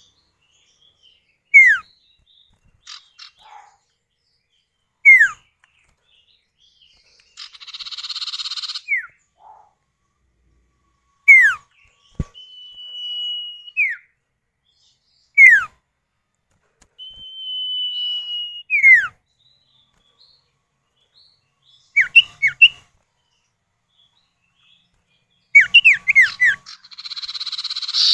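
Common iora (sirtu, cipow) pair calling back and forth, male and female answering each other. Short downward-slurred whistles come every few seconds, with two long level whistles that each drop away at the end, and two bursts of buzzy, rasping chatter, the second near the end.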